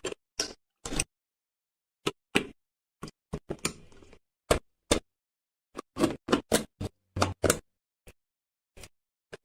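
Short, sharp clicks and knocks of PC components being handled and fitted together during a PC build. They come in a quick, irregular series with silence between them, and a brief rattle a little over three seconds in.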